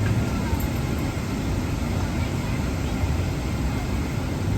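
Steady airliner cabin noise: a constant low rumble and hiss with no distinct events.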